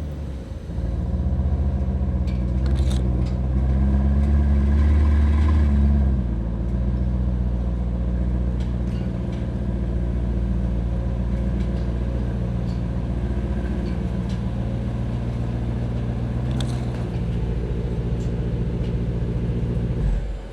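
Aston Martin DBX S 4.0-litre twin-turbo V8 pulling under throttle while driving. The engine note climbs from about a second in, rises in pitch for a couple of seconds, then drops back about six seconds in and holds a steady cruising drone until it cuts off abruptly at the end.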